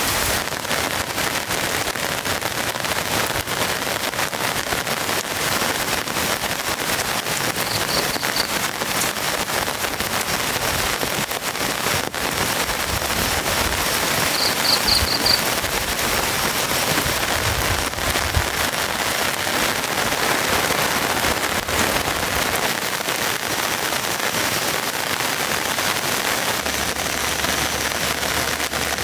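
Heavy rain falling steadily, with a dense spray of sharp drop hits. A short run of high chirps sounds about halfway through.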